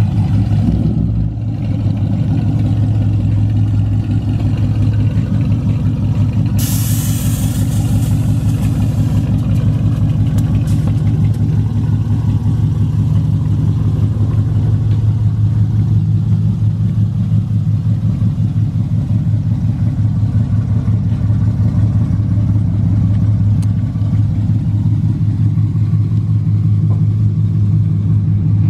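2015 Camaro SS's 6.2-litre V8 idling steadily with a deep, even rumble. A brief hiss of noise rises over it about seven seconds in.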